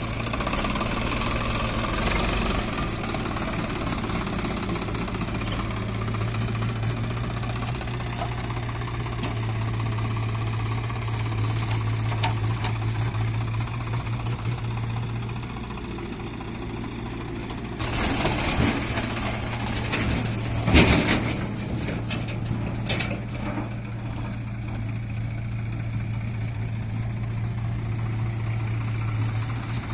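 Heavy diesel engine running steadily at a low, even pitch. A little past halfway there are a few seconds of louder rattling and sharp knocks, one knock standing out as the loudest sound.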